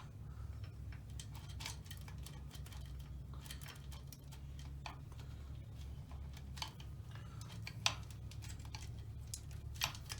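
Light metallic clicks and rattles of an old timing chain being worked down and out of a Yamaha Moto-4 350 engine, coming irregularly, with sharper clicks about eight seconds in and again near the end, over a steady low hum.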